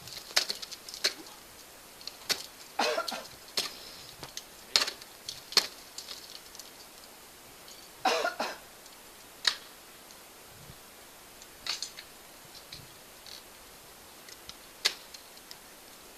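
Ice axes and crampon points striking the ice of a frozen waterfall: irregular sharp hits a second or more apart, two of them followed by a short scraping crunch.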